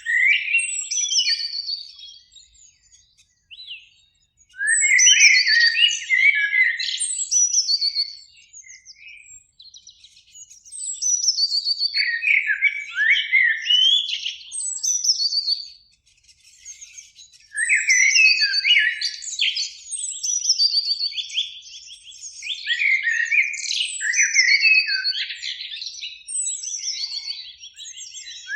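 Eurasian blackbird song: phrases of warbled whistles with higher twittering notes, separated by short pauses.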